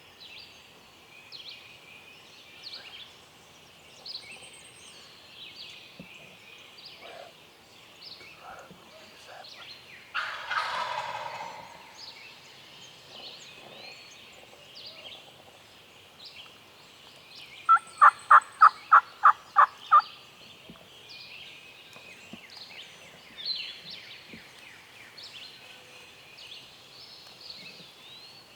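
Wild turkey gobbling once, about ten seconds in, against steady songbird chirping. Around eighteen seconds in comes a loud run of about nine evenly spaced turkey yelps, the loudest sound.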